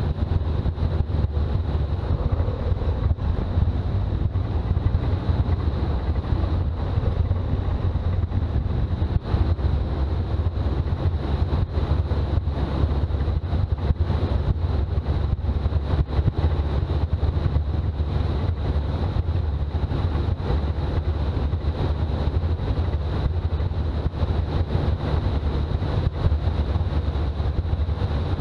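Toyota BJ40 Land Cruiser on the move: a steady low drone of engine and road noise, with wind on the microphone.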